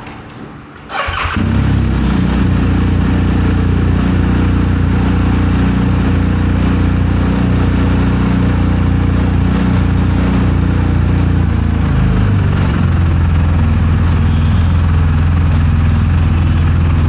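BMW R 1250 GS boxer twin cranked by its starter, catching about a second in and then idling steadily in neutral. The idle note shifts and settles about twelve seconds in.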